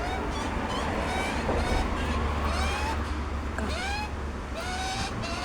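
Young birds calling with many short, high, rising chirps, several overlapping, over a steady low rumble.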